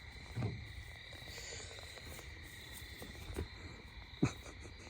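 Crickets chirping steadily in the background, with a few soft knocks, the loudest near the end.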